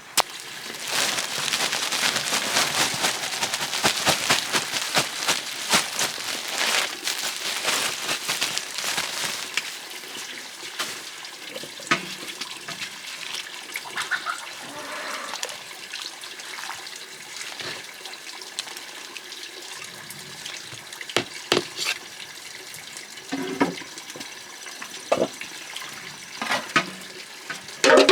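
Water running or splashing, loudest for the first ten seconds or so, then quieter, with scattered clicks and knocks.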